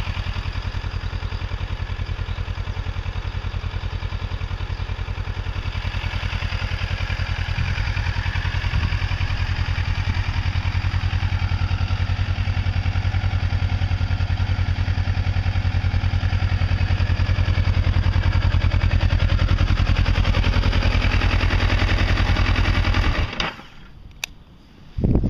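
Kawasaki ER-6f's 649 cc parallel-twin engine idling steadily, then shut off abruptly near the end. A short knock follows just after it stops.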